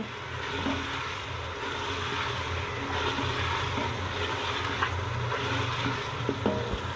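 Spiced masala sizzling in oil in an aluminium pressure cooker as boiled eggs are fried in it (the bhunai stage) and turned with a wooden spoon, over a steady low hum.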